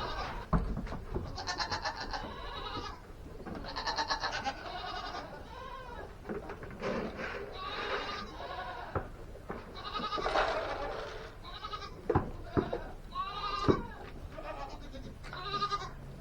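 Goats bleating again and again, wavering calls a second or two long every couple of seconds, with a few sharp knocks among them late on.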